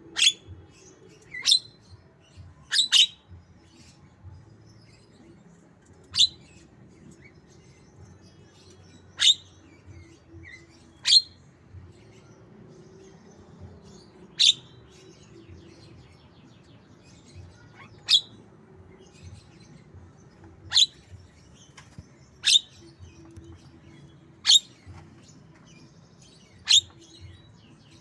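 Javan myna giving a series of short, sharp single calls, about a dozen spaced irregularly a couple of seconds apart, in imitation of a white-rumped shama, over a faint low hum.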